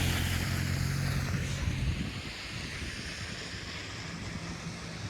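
A motor vehicle passing close on a wet, slushy street: its engine hum and tyre swish fade away over the first two seconds. Steady traffic hiss and wind noise follow.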